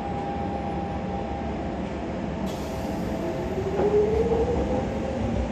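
Electric metro train running, a steady rumble with a held motor hum. A motor whine rises in pitch through the second half as a train accelerates.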